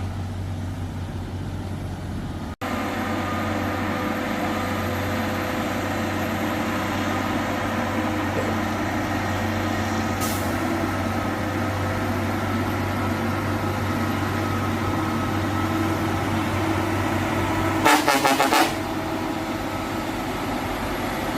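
Heavy cargo truck's engine running steadily under load, with a short hiss about ten seconds in and a loud horn blast near the end, lasting under a second.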